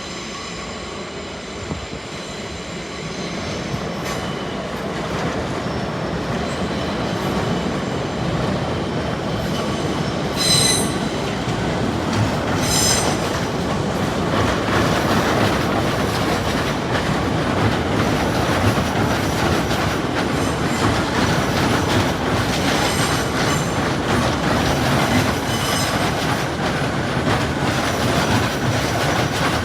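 A train running on nearby track, growing louder over the first half and then staying steady, with rumble and the clatter of wheels over the rails. Steel wheels squeal in short high-pitched bursts about ten and thirteen seconds in, and fainter squeals come later.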